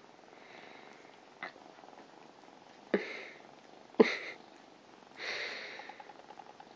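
Cat purring faintly, broken by three sharp taps about one and a half, three and four seconds in, and a short breathy rush of noise a little after five seconds.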